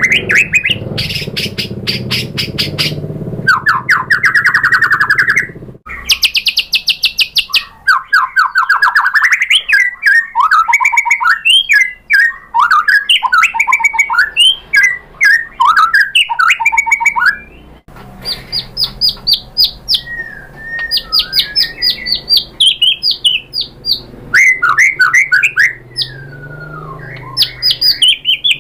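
White-rumped shama (murai batu) singing a loud, varied song: fast runs of rapidly repeated notes, trills and sweeping whistles, with abrupt breaks about six and eighteen seconds in.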